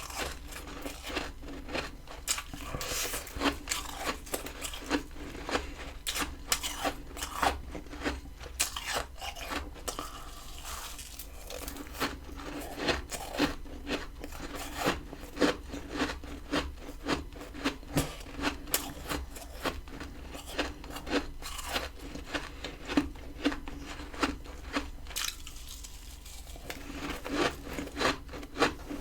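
Crisp, irregular crunches and scrapes of freezer frost ice, several a second, with a brief thinner stretch a little before the end.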